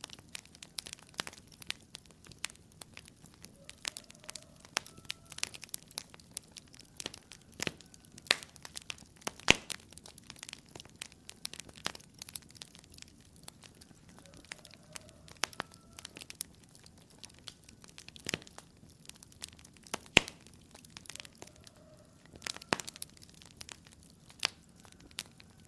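Wood fire crackling in a fireplace: a steady, irregular patter of small snaps and pops, with a few sharper pops standing out, notably about nine seconds in and again about twenty seconds in.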